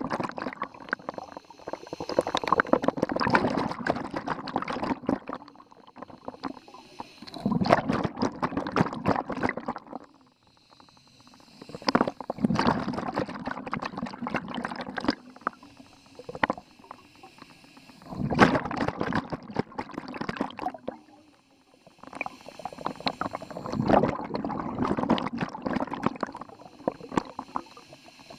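Scuba diver's exhaled bubbles bursting and gurgling from the regulator, about five exhalations, each lasting a few seconds with quieter pauses for the inhale between them.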